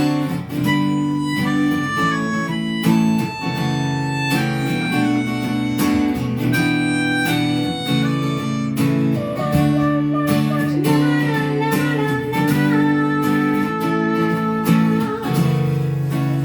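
Live acoustic guitar and harmonica playing an instrumental passage without vocals: sustained harmonica chords and melody over the guitar.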